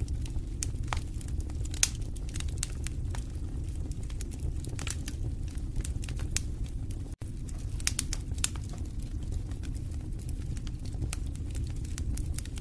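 Wood fire burning in a fireplace: a steady low rumble of flames with frequent irregular sharp crackles and pops. The sound cuts out for a split second about seven seconds in.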